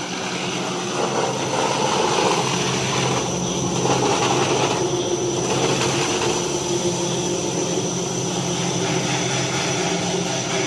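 Brush sanding machine for kitchen cabinet doors running: a steady mechanical drone with a constant high whine over it.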